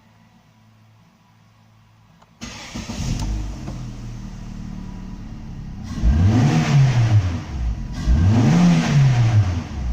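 Opel Astra H's 1.8-litre Z18XE four-cylinder petrol engine starting up abruptly about two seconds in and idling, then revved twice: each rev rises and falls back to idle.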